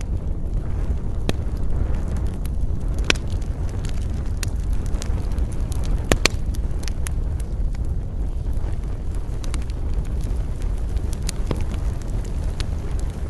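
Wood campfire burning: a steady low rush of flame with scattered sharp crackles and pops, a few louder snaps among them.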